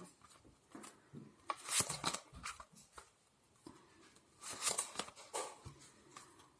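Tarot cards being shuffled and handled, giving soft papery riffling and flicking in two short bursts, one about a second and a half in and one near the end.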